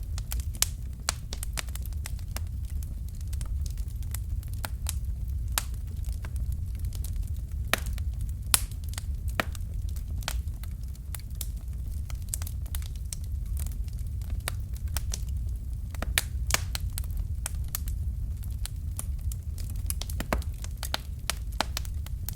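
Fire crackling: irregular sharp snaps and pops, several a second, over a steady low rumble.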